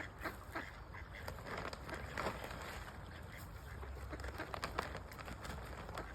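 Mallard ducks quacking now and then, short scattered calls, over a steady low rumble.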